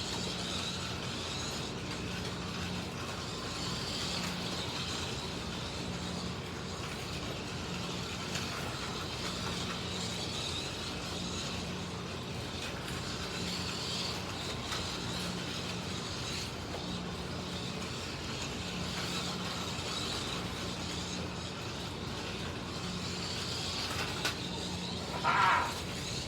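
Slot cars running laps: the small electric motors, gears and tyres make a steady buzzing whine that swells and fades as the cars pass. Near the end there is one short, louder pitched sound.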